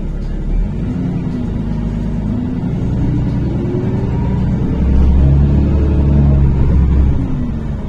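NefAZ-5299 city bus's engine pulling away and accelerating. Its note climbs in pitch, drops back as the gearbox shifts up about two and a half seconds in, climbs again, and eases off near the end.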